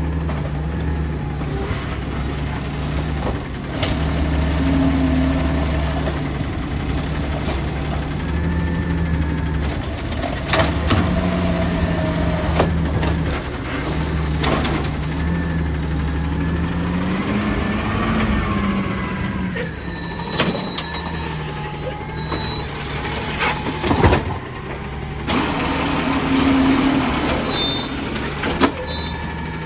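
Peterbilt 320 garbage truck with an Amrep automated side loader running steadily, with air-brake hisses. The engine rises and then falls in pitch a little past halfway, and a sharp bang about three-quarters through is the loudest moment.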